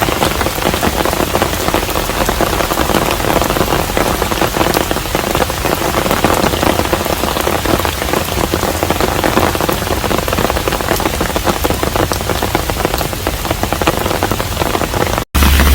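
Steady rain falling on a hanok, a Korean traditional house, with a dense patter of individual drops. Near the end it cuts out abruptly and a steady low hum begins.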